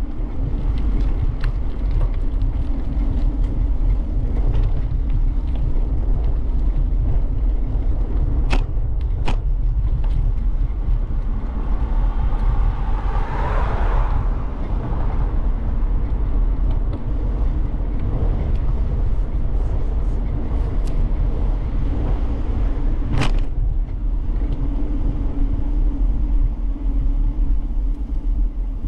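Steady low rumble of riding recorded from a moving bicycle: wind on the microphone and tyre noise on the path. There is a brief louder swell about halfway, and a few sharp clicks.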